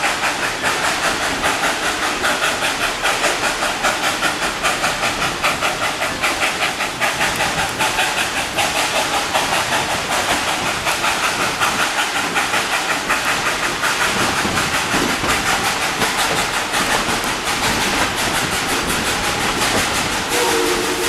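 Narrow-gauge steam train running, its sound keeping a steady quick beat of about three pulses a second. The locomotive's steam whistle starts blowing near the end.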